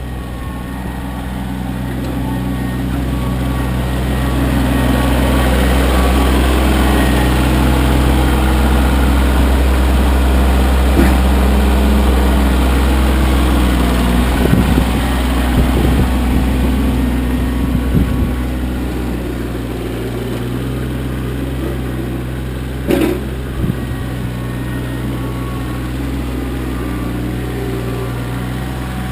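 Kioti CK25 compact tractor's diesel engine running steadily, growing louder a few seconds in and easing back down later. A few knocks and clunks sound over it, with a sharper one late on.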